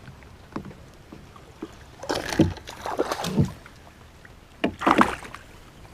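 Water splashing around a kayak in three short bursts about a second apart, with small knocks in between.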